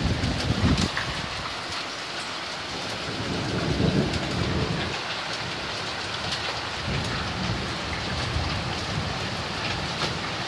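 Heavy hailstorm: a dense downpour of rain and hailstones pelting surfaces, with many sharp ticks of individual stones. Low rumbles swell up about half a second in and again around four seconds.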